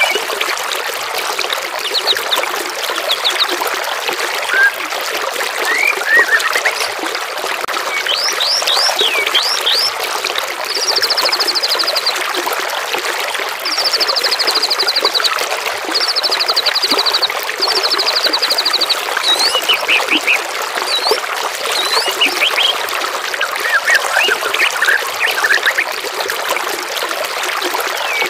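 Songbirds calling over steadily trickling water: groups of quick whistled notes sweeping up and down, and four rapid high trills of about a second each near the middle.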